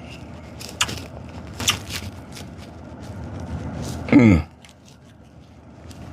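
Eating a Blizzard with a spoon: a couple of light clicks, then a short falling "mmm" of enjoyment about four seconds in.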